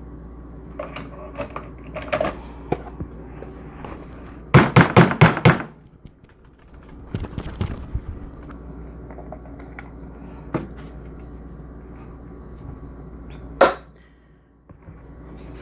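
Plastic dust bin of a cordless stick vacuum being handled and knocked to shake out stubborn dog hair that did not all come out. Scattered clicks and rattles, with a quick run of about five sharp knocks about four and a half seconds in.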